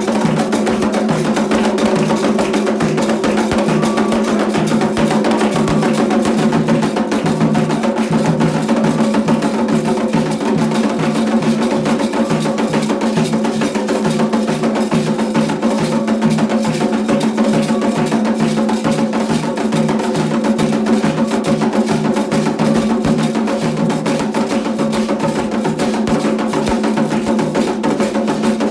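Candomblé ceremonial music: hand drums beating a steady rhythm of about two low strokes a second, with a struck wood-block- or bell-like percussion part over held tones.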